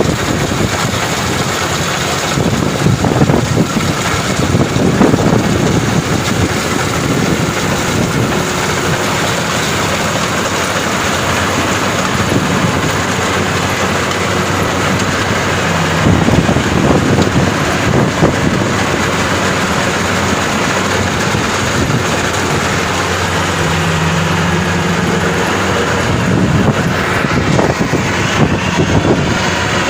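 Maxxi Bimo 102 rice combine harvester running steadily and loudly, its engine and threshing machinery making a dense mechanical noise that surges a few times.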